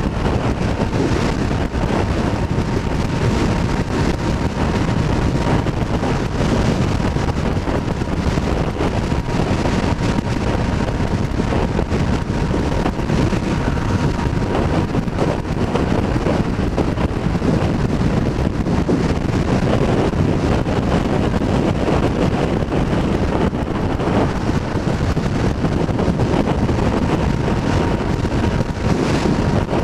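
Wind rushing over the microphone of a moving motorcycle, with the engine running steadily underneath and a faint steady whine.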